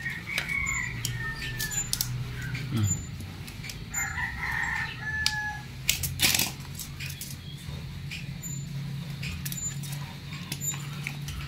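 A bird calling twice, once at the start and again about four seconds in, each call lasting over a second and falling slightly in pitch. Clicks and knocks of plastic outlet plates being handled, the loudest about six seconds in, over a steady low hum.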